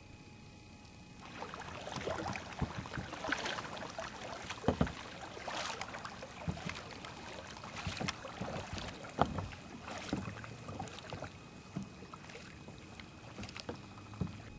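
Kayak paddles dipping and splashing in river water. The irregular strokes and drips start about a second in.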